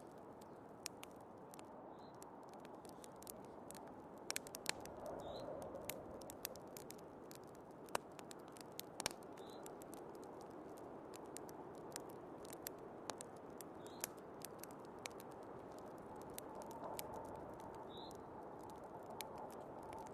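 Wood fire crackling, with scattered sharp pops at irregular moments, over a steady low rush of storm wind.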